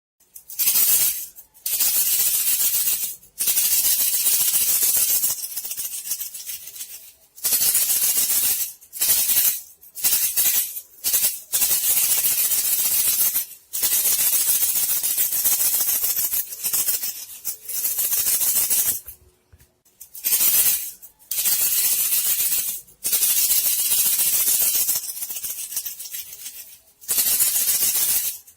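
A rattling, hissing lure sound for bandicoot rats, played in bursts of about one to three seconds with short gaps between them.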